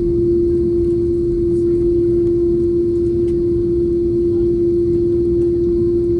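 Jet airliner cabin noise: a steady low rumble of engines and airflow with a constant mid-pitched hum.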